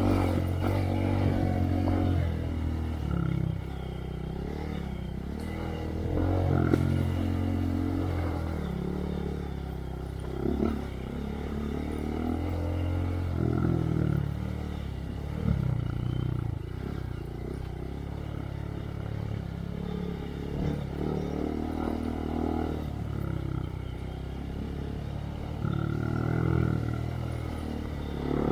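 2023 Honda Monkey's single-cylinder engine running through a Yoshimura RS3 exhaust with spark arrestor while riding a trail, the throttle repeatedly opening and easing off so the engine note rises and falls every few seconds. There are a few short knocks along the way.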